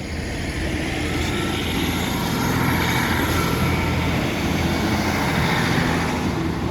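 Class 150 diesel multiple unit passing over a level crossing, its underfloor diesel engines running with a low steady drone that swells to its loudest in the middle of the pass, with a faint high whine above it.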